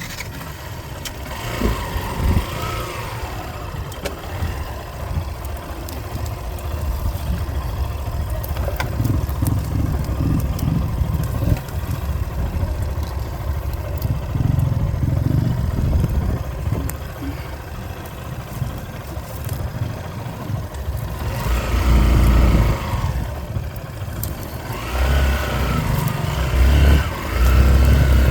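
Vehicle engine and road noise while driving: a continuous low rumble that swells louder about two-thirds of the way in and again near the end.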